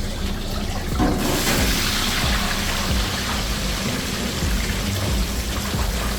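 Chicken frying in hot oil: a steady sizzling hiss that starts suddenly about a second in.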